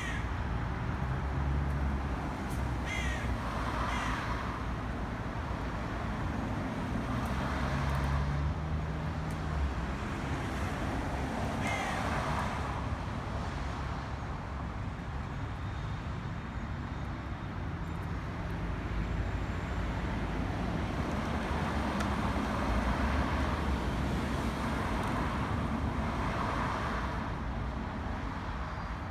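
Crows cawing, hoarse calls coming every few seconds, over a steady low rumble of road traffic.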